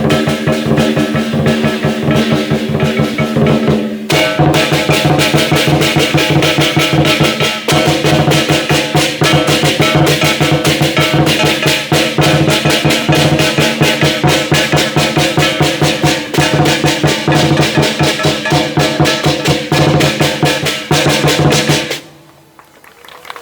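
Chinese dragon and lion dance percussion band, a big drum beaten in a fast, dense rhythm with ringing metal cymbals and gong, stopping suddenly near the end.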